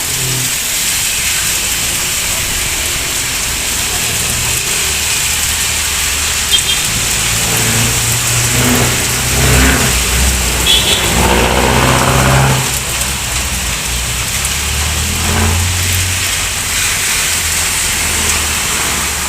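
Heavy rain hissing steadily on a city street while motor vehicles drive past, their engines loudest from about eight to thirteen seconds in and again around fifteen seconds in.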